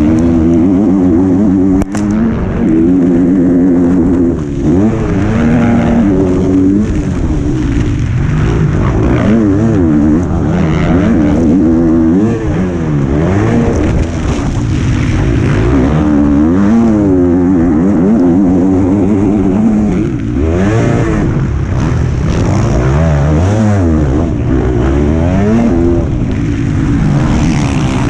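Motocross bike engine heard close up from onboard, revving hard and dropping back again and again as the rider accelerates, shifts and slows for corners. A sharp knock about two seconds in.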